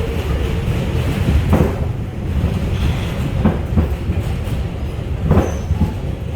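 R142 subway train running and crossing a switch onto the express track: a steady low rumble with several sharp wheel clunks over the switch, about one and a half, three and a half and five seconds in.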